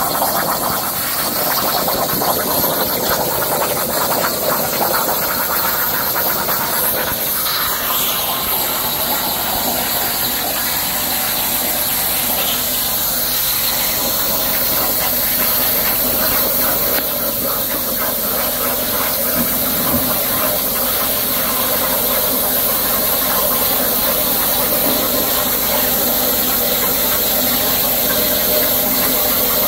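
CNC plasma torch cutting through 3/4-inch plate, giving a steady, loud hiss of the arc and its air stream.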